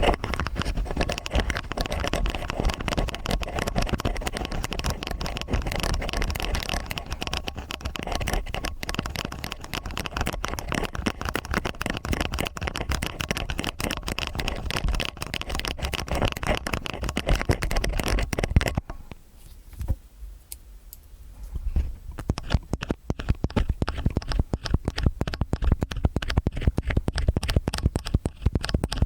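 Stainless steel ear picks scraping and scratching in both ears at once, a dense run of small scratches and clicks. It drops away for about three seconds around two-thirds of the way through, then starts again.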